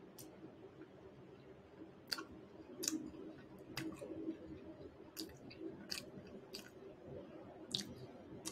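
Someone chewing a mouthful of crispy fried chicken burger, a KFC Zinger, close to the microphone: faint, with irregular crisp clicks and crunches about once a second.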